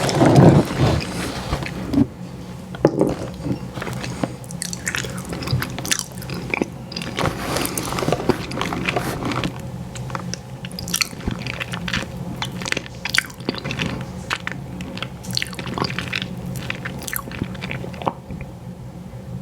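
Close-miked eating of an ice cream sandwich: a big bite right at the start, then wet chewing with many small smacks and clicks from the soft cookie and ice cream.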